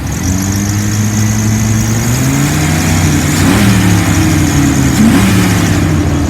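1999 Dodge Ram 3500's 5.9-litre gas V8 being revved: engine speed climbs and is held up, with two quick blips about halfway and near the end. It revs up cleanly.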